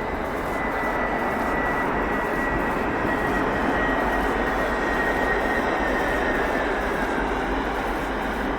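Airbus CC-150 Polaris jet airliner's engines during landing: a steady rushing noise with a thin high engine whine that drops slightly in pitch near the end.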